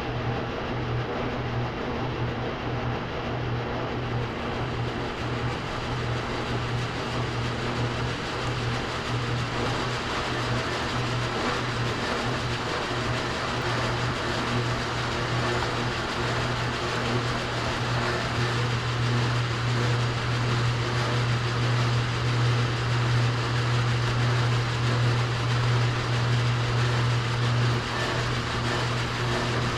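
Steady machinery running: a strong low hum under an even hiss, with no breaks.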